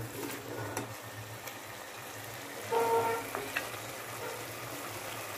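Meat-and-cauliflower masala frying and sizzling in an aluminium pot as it is stirred, with a metal spatula scraping and clicking against the pot now and then. A short voice-like sound comes about three seconds in.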